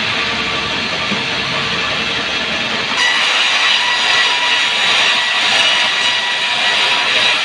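Sawmill saw running through a sengon log, a steady loud machine noise that grows louder and harsher about three seconds in as the cut goes on.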